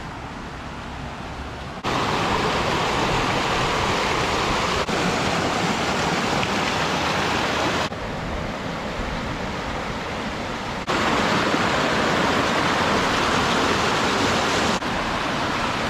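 Rushing water of a mountain waterfall or creek: a loud, steady rush that jumps abruptly in level several times.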